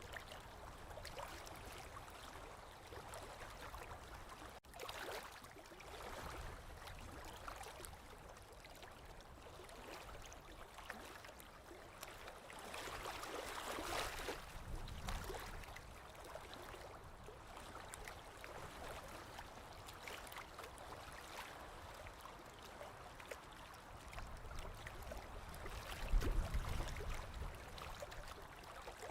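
Small waves lapping on a lakeshore, an uneven wash that swells and fades every few seconds. A brief low rumble near the end is the loudest moment.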